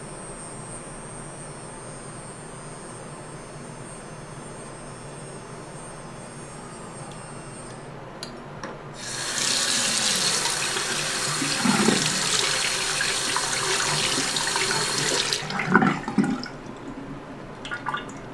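Water running from a tap for about six seconds, starting about nine seconds in, then a few knocks and splashes as it stops. Before it, a faint steady hiss.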